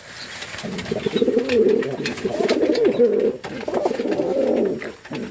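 Domestic fantail (lakkha) pigeon cooing: a long run of low, throaty, wavering coos that starts about two-thirds of a second in, with a brief break about halfway through.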